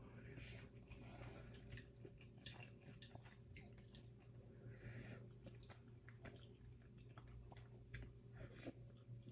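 Faint close-up chewing of soft instant ramen noodles, with small irregular wet mouth clicks over a steady low hum.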